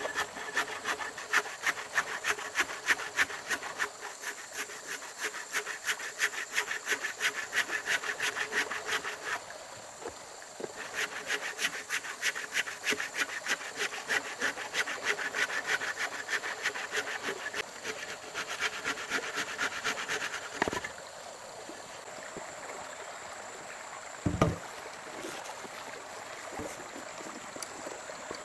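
Hand saw cutting wood in quick, even back-and-forth strokes, in two long bouts with a short pause about ten seconds in; the sawing stops about 21 seconds in. A single knock follows a few seconds later.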